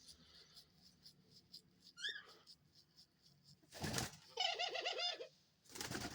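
Pet doves calling in their cage: a short high call, a brief rustling burst, then a rapid run of short wavering notes about eight a second, with another rustle near the end.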